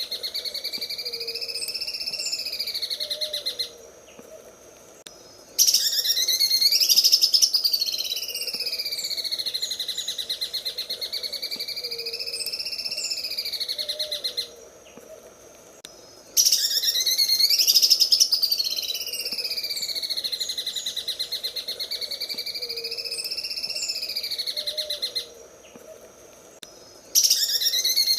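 Green leafbird (cucak ijo) singing its 'sewing machine' song: a fast, rattling run of notes whose pitch rises and falls in slow waves. The song breaks off twice for about two seconds, near four seconds in and again near the middle, and comes back louder each time.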